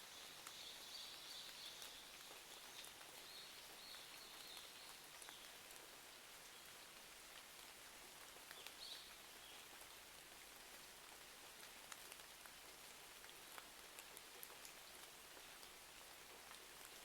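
Faint, steady rain ambience scattered with small sharp ticks and pops, the crackle of a wood fire mixed with raindrops. A faint high-pitched sound comes through in the first few seconds and again briefly about nine seconds in.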